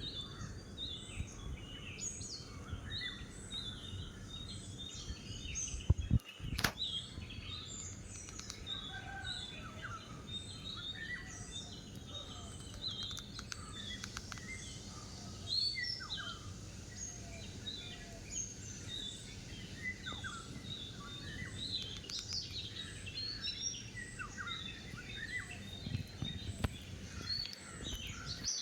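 Many small birds chirping and calling at once in a dense, continuous chorus of short, overlapping chirps. A single sharp click comes about six seconds in.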